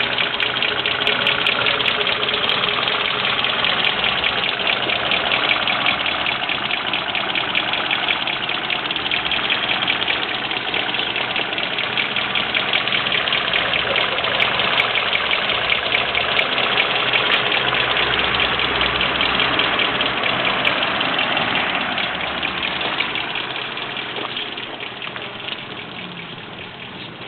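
Citroën ZX 1.4 engine, with about 280,700 km on it, idling steadily with a fast, even ticking. The sound grows fainter over the last few seconds.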